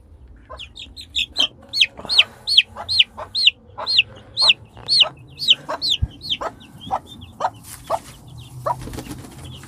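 A baby chick peeping loudly and over and over, about two high peeps a second, the steady distress peeping of a chick separated from or handled away from its hen. Shorter, lower hen clucks carry on through the second half.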